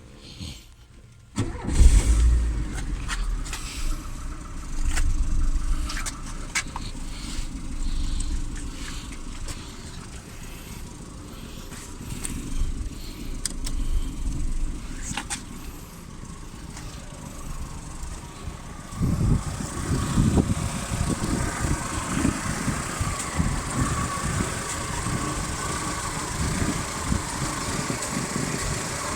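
Volkswagen Passat B2 engine starting about a second and a half in, then running steadily. The sound changes about two-thirds of the way through, with a stronger low throb from then on.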